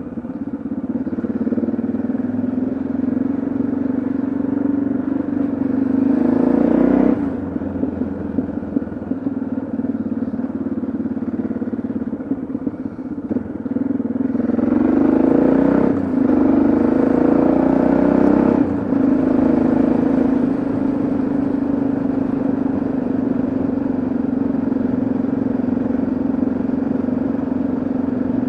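Yamaha XT660Z Ténéré's single-cylinder engine running on the road. The revs climb and drop off sharply about three times, as at gear changes, then hold steady at a cruise.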